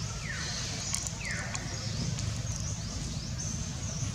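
Repeated high bird chirps over a steady low rumble, with two short falling calls in the first second and a half.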